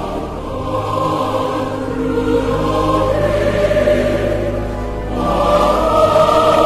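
Background music: a choir singing sustained notes over a steady low bass, swelling louder about five seconds in.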